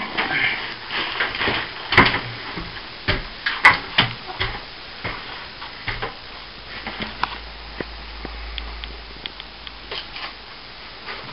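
Irregular knocks and clicks of objects being handled, sharpest about two seconds in and again around three and a half to four seconds in, growing sparser toward the end.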